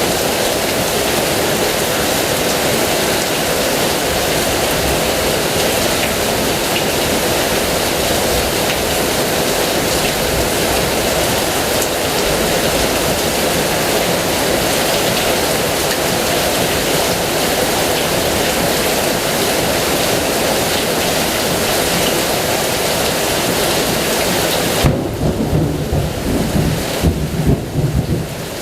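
Heavy rain falling in a steady, dense hiss. Near the end, a low, uneven rumble of thunder comes in as the hiss of the rain thins.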